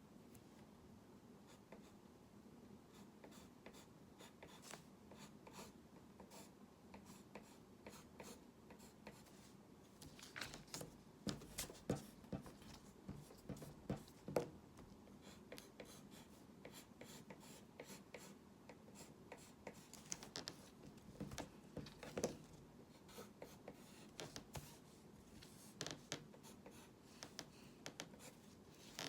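Hand drawing: a pen's light scratches and taps on the drawing surface, coming in irregular clusters of short strokes, busiest about a third of the way in and again after the middle.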